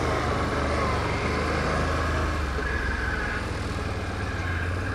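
Can-Am ATV engine running steadily while riding along a trail, a low even drone.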